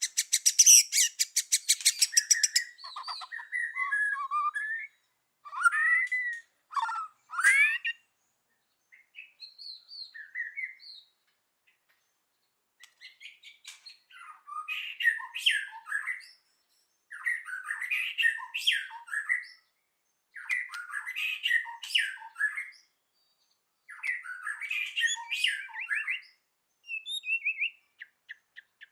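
White-rumped shama singing: a fast dry rattle near the start, then varied whistled notes and glides, then repeated phrases of about two seconds each with short pauses between them.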